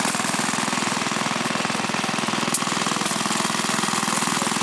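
Small vintage stationary engine running steadily with a fast, even beat, driving a water pump.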